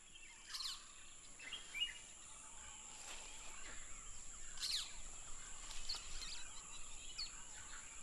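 Faint forest ambience: several short, high bird chirps scattered over a quiet background, with a steady high-pitched hum throughout.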